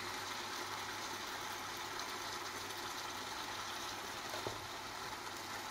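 Bulgogi (thin-sliced beef with onion, carrot and mushroom) sizzling steadily in a frying pan, over a constant low hum.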